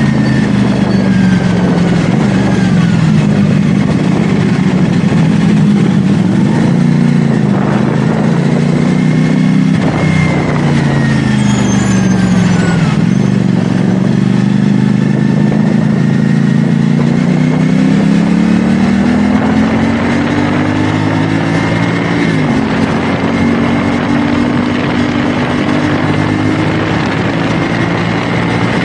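CFMoto 450SR S parallel-twin engine pulling the bike along on the road. The revs rise and fall repeatedly, with a few sudden drops and a long steady climb in the second half, over a constant rush of wind and road noise.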